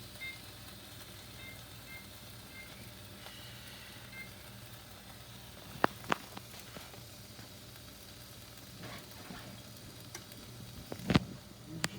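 Chicken breasts searing in a hot frying pan, a steady sizzle. A couple of sharp knocks come a little before halfway and again near the end.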